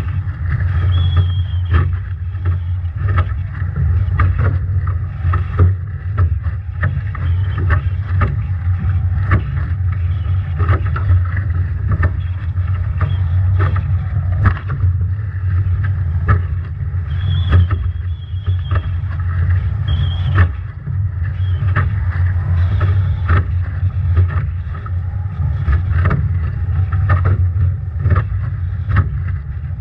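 Strong wind buffeting the onboard microphone of a Nacra 17 foiling catamaran sailing upwind in storm conditions, with constant irregular slaps and crackles of spray and waves hitting the boat. A brief high whistle comes and goes a few times.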